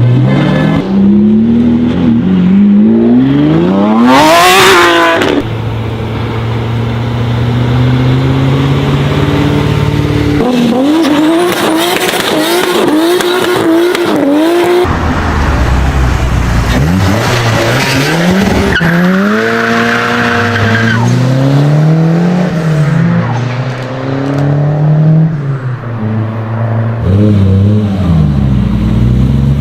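Several high-performance sports car engines in quick succession, each revving and accelerating hard with loud exhaust notes. The pitch climbs steeply, drops at gear changes or when the throttle is lifted, and is blipped up and down repeatedly, with abrupt changes from one car to the next.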